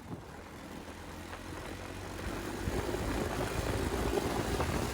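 Motorcycle engine running as the bike is ridden, growing gradually louder.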